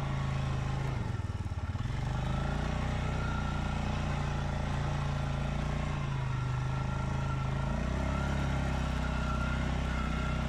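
Stels Leopard 650 ATV engine running at a steady speed. Its pitch dips briefly and comes back about a second in, and shifts again around six seconds.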